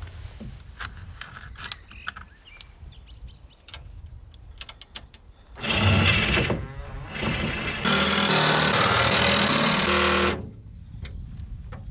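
Small metal clicks and knocks of parts being handled and bolts started by hand. Then a power tool runs in short bursts and then steadily for about two seconds before stopping sharply, driving in the bolts that hold a new captive-nut backing plate under a Land Rover's rear tub.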